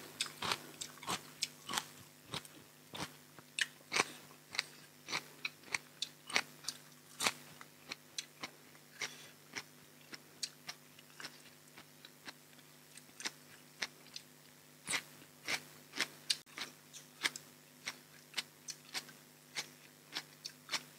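Close-miked eating: crisp, irregular crunches and chewing, one to three a second, of raw fresh vegetables and raw shrimp salad being bitten and chewed. A faint steady low hum lies underneath.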